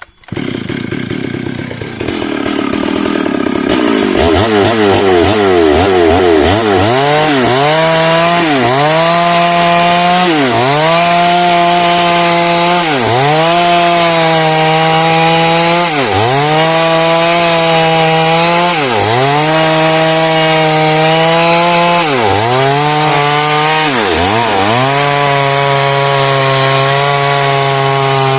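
Two-stroke chainsaw revving up to full throttle about four seconds in and ripping lengthwise through hardwood heartwood. Its engine note dips briefly and recovers every two to three seconds as the chain bites into the cut.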